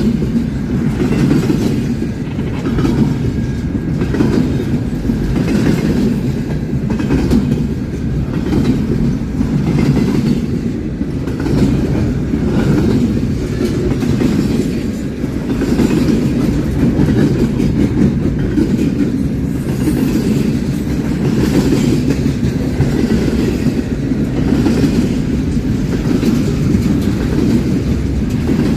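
A train rolling past close by: a steady, heavy low rumble of railcars with the wheels clicking over the rail joints again and again.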